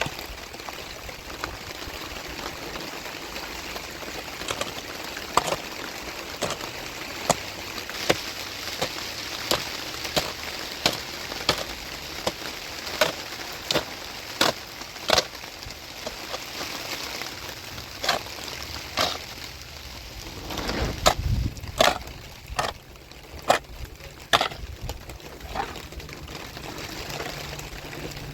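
A series of sharp knocks or cracks, roughly one or two a second and unevenly spaced, over a steady hiss, with a heavier low thud about three quarters of the way through.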